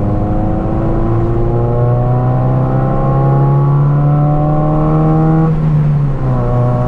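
Raffo Belva's Ford Zetec four-cylinder engine pulling under acceleration, its pitch climbing steadily, then falling about five and a half seconds in, as at a gear change, before climbing again.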